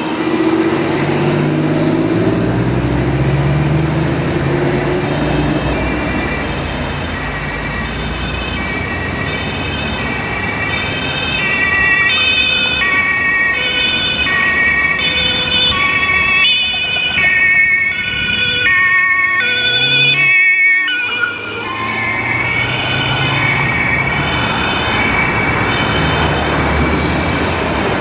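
German police patrol car's two-tone siren sounding its alternating high-low notes over engine and traffic noise. The siren grows louder and is loudest from about twelve to twenty seconds in, then drops back a little.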